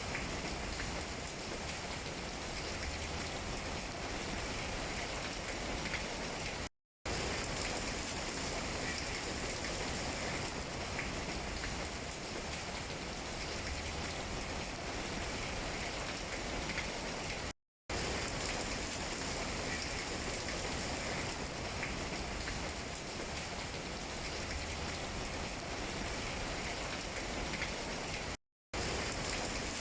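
Steady rain falling on tree leaves: an even hiss with scattered small drop taps. The sound cuts out to complete silence for a split second three times, about eleven seconds apart.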